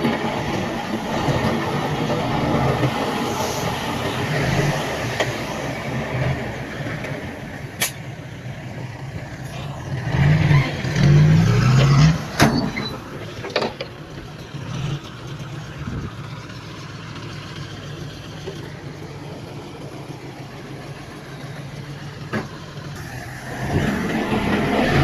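Heavy earthmoving machinery engines running at a steady drone. The engines swell louder around ten to twelve seconds in and again near the end, with a few sharp clanks in between.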